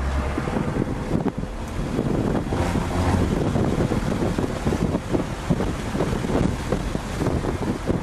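BMW E36 M3 straight-six engine running hard under load on a racetrack, heard from inside the cabin with wind and road noise mixed in.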